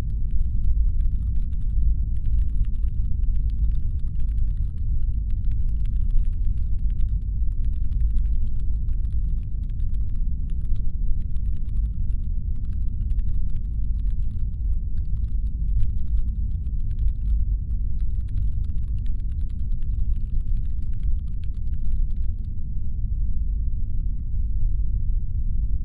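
Deep, steady brown-noise rumble, as a spaceship engine hum, with a faint layer of rapid clicking over it that stops near the end.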